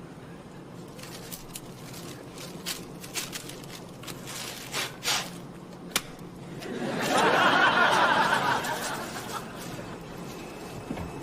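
A few scattered small knocks and clicks, then a studio audience bursts into laughter about six and a half seconds in. The laughter swells, is loudest for a couple of seconds, and dies away.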